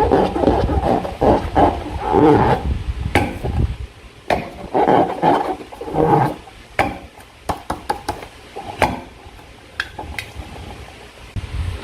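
Slime being squeezed and worked by hand, squelching wetly, with a dense run for the first couple of seconds, then shorter squishes and many sharp little clicks and pops of trapped air.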